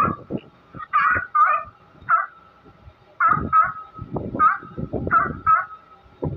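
California sea lions barking: about nine pitched barks in quick bunches of two or three, with a faint steady tone running between them.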